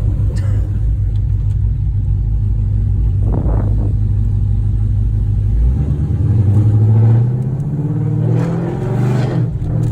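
Loud car engine and exhaust: a steady low drone, then about six seconds in the engine note climbs and swells as the car accelerates.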